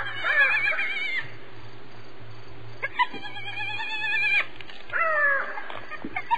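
Hyena calls: three bursts of high, warbling, giggle-like vocalisations, the last one sliding down in pitch about five seconds in.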